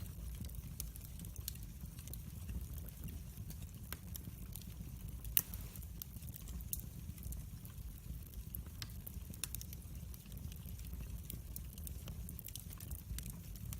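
Log fire burning in a fireplace, crackling with many small sharp pops over a low steady rumble, and one louder pop about five seconds in.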